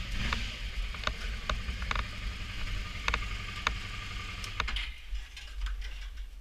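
Motorcycle engine idling with a low steady hum, cut off about five seconds in. Scattered sharp mechanical clicks run through it and continue after the engine stops.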